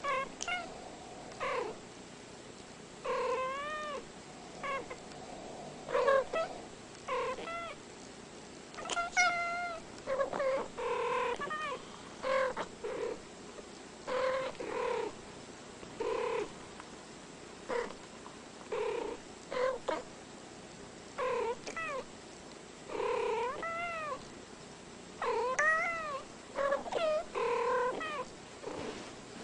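Cat meowing over and over, short calls that rise and fall in pitch, roughly one a second.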